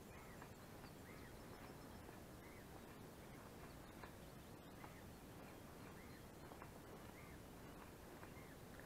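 Near silence outdoors, with a faint bird chirping over and over: short high notes, roughly one every half second to a second.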